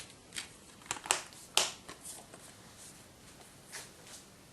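Handling of a DVD case: about six sharp clicks and taps, the loudest about a second and a half in.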